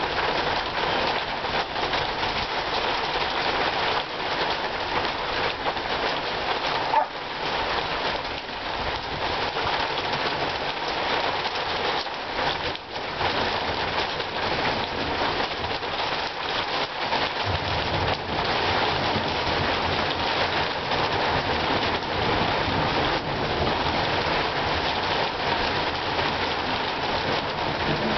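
Rain falling steadily in a thunderstorm. A low rumble of thunder builds from a little past halfway.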